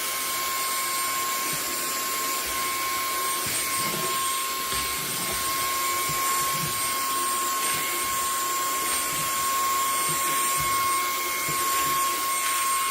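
eufy HomeVac H30 Mate cordless handheld vacuum running steadily on its low speed: a constant high-pitched motor whine over the hiss of the suction air, with occasional faint knocks.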